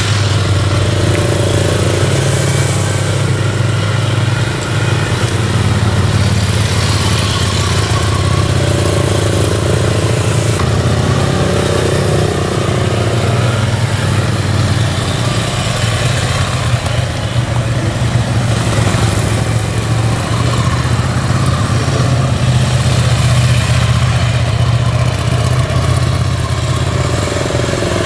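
Motorcycle engine running steadily at low speed, its note shifting up and down a little with the throttle.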